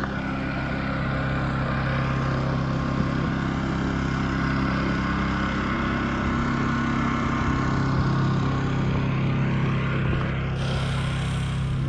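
An engine running steadily at idle, an even low drone.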